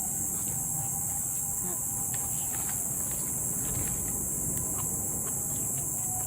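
A steady, shrill chorus of insects, with scattered small crackles from a low campfire.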